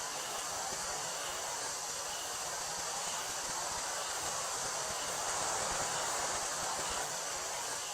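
Wind blowing through a wheat field, a steady rustling hiss, with a continuous high-pitched drone of summer cicadas over it.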